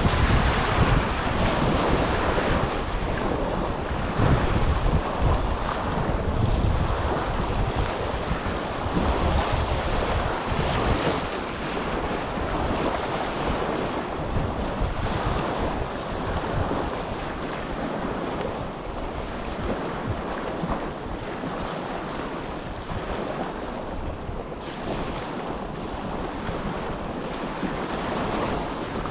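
Small waves of the Dead Sea washing continuously on the shore, with wind buffeting the microphone in low rumbles. It is a little louder in the first half and eases slightly later on.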